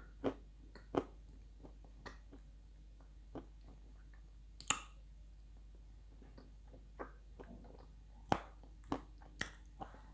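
Dry chunks of edible clay crunching between the teeth as they are chewed: scattered sharp crunches about a second apart, the loudest about halfway through, with a quick cluster near the end.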